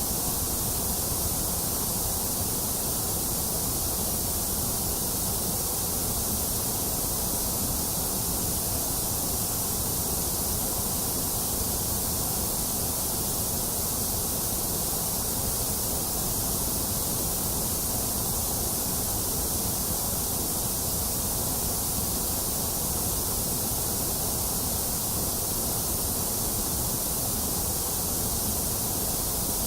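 Steady, unchanging white noise of the kind played to soothe a baby to sleep. It is an even hiss, brightest in the high treble over a low rumble, with no breaks or changes.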